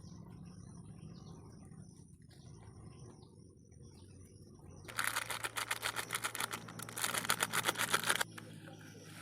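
A rapid run of sharp clicks, about eight a second, starting abruptly about five seconds in and stopping just as abruptly about three seconds later, over a faint low hum.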